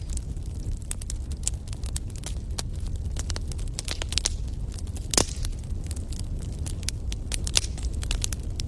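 Wood fire crackling, with many irregular sharp pops over a steady low rumble; one louder pop about five seconds in.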